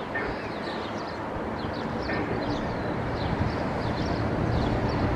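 A steady low rumble with many short, high bird chirps repeating over it.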